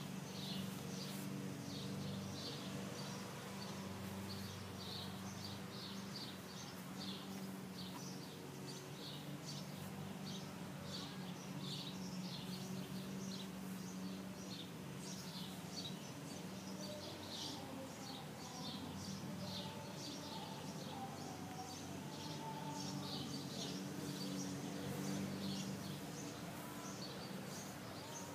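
Small birds chirping in short repeated bursts throughout, over a steady low mechanical hum.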